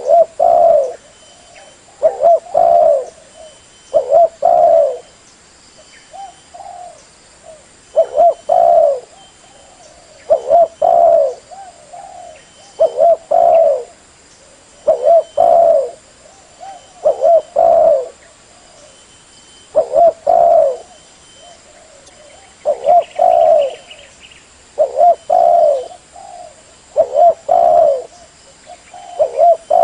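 Spotted dove (terkukur) cooing: short phrases of a few low coos, repeated about every two seconds.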